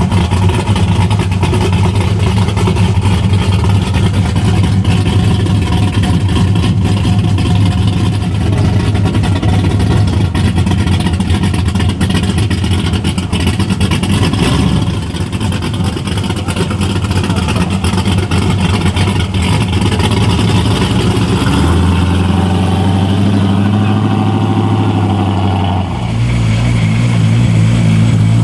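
Muscle-car engine exhaust running loudly with a steady low rumble, the engine note shifting abruptly twice near the end.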